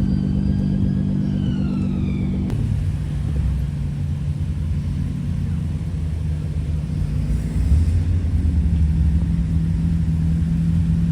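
Car engine running with a steady low rumble, its note changing abruptly about two and a half seconds in and growing louder and deeper near the end.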